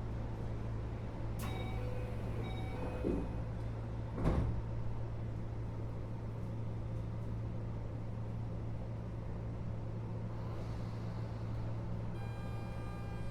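Interior noise of a Keio 8000 series electric train car: a steady low hum with a few light clicks and one louder knock about four seconds in. Near the end, a set of steady high-pitched tones sets in over the hum.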